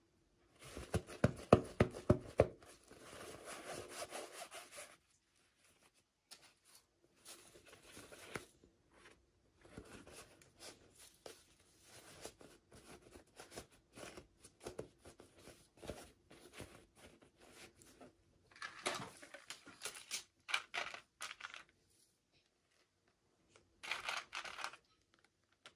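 Hands opening and handling small toy packaging: a quick run of sharp scraping clicks in the first few seconds, then scattered rubbing, tearing and rustling, with two louder rustling stretches near the end.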